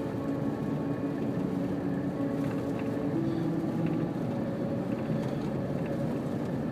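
Steady vehicle noise heard from inside the cabin, under the last held notes of a slow song playing on the car radio; the notes change once about three seconds in.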